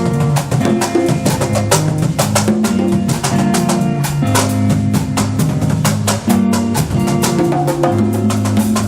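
Instrumental Latin music in a salsa style: a dense, rapid run of percussion strikes over a pitched bass line and sustained chords.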